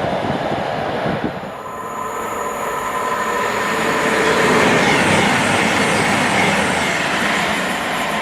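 A train running past on the rails: a steady rush of wheel and rail noise with a few high, held whining tones over it, growing louder towards the middle.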